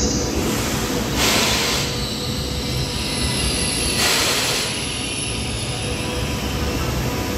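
Trenitalia Frecciarossa high-speed electric train running at a station platform: a steady low rumble with a thin electrical hum, and two short hisses, about a second in and about four seconds in.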